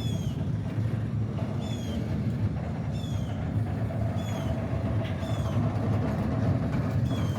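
Norfolk Southern train giving a steady low rumble with a faint hum in it. On top, a short high chirp falling in pitch repeats about once a second.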